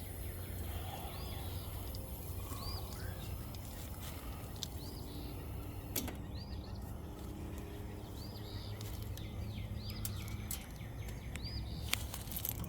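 A bird chirping over and over in short, arched high calls over a steady low hum, with two sharp clicks, one about six seconds in and one near the end.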